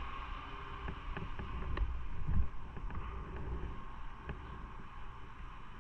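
Motorcycle on the move: low rumble of the engine and road, with wind rushing over the microphone and a brief swell about two seconds in.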